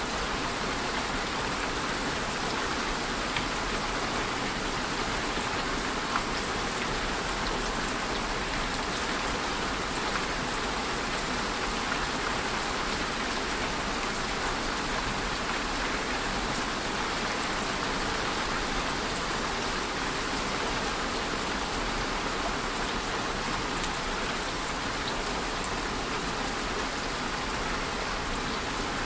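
Steady rain falling on a surface, with scattered individual drops ticking through the even hiss.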